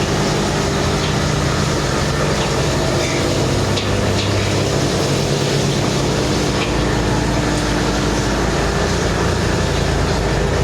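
Steady mechanical drone of a running motor under a constant background din. Its lowest hum grows stronger about two-thirds of the way through.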